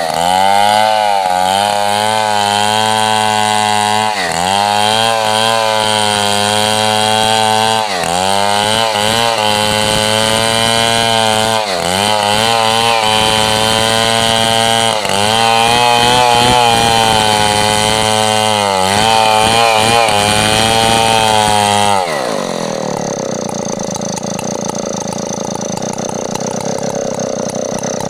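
Stihl 070/720 chainsaw running at high revs while ripping coconut trunk into lumber, its pitch sagging briefly every few seconds under the load of the cut. About 22 s in it drops sharply to idle, then revs up again at the very end.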